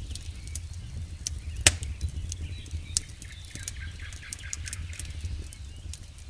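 Wood fire crackling, with irregular sharp pops and snaps, the loudest about one and a half seconds in, over a steady low rumble.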